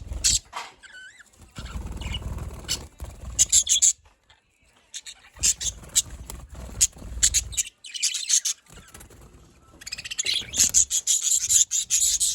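Pet budgerigars chirping and chattering in quick, sharp bursts that come in clusters with short pauses, busiest near the end, with a low rumble under some of it.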